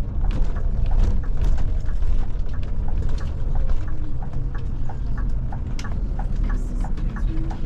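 Scania Touring coach heard from on board: a steady low engine and running rumble, with frequent irregular clicks and knocks over it.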